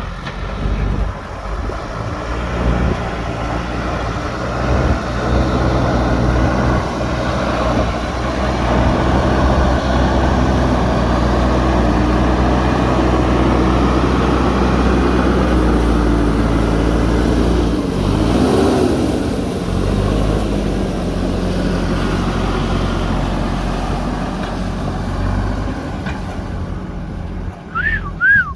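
Diesel engine of a JCB 3DX backhoe loader running under load as it digs, with its pitch dipping and rising about two-thirds of the way through. Near the end there are two short high chirps.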